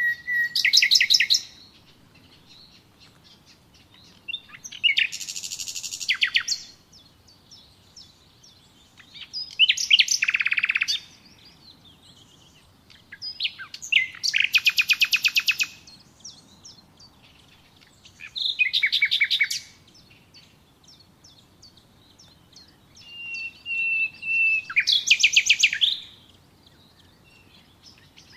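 A songbird singing the same kind of short song over and over, about every four to five seconds. Each song is a fast, rapid-fire trill lasting a second or two, and some songs open with a short held whistle.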